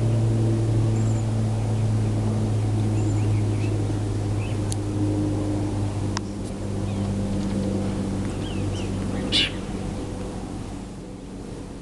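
A steady low motor hum that fades near the end, with small bird chirps over it and one louder bird call about nine seconds in.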